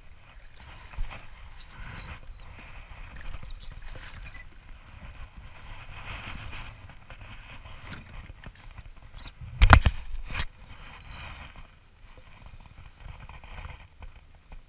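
A hooked snook brought alongside a plastic kayak and netted: faint splashing and handling noise, with a sharp knock on the kayak about ten seconds in and a smaller one just after as the net and fish come aboard.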